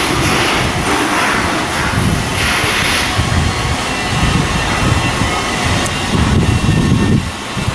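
Loud, steady industrial machinery noise. A high hiss carries the first three seconds, then a lower rumble dominates.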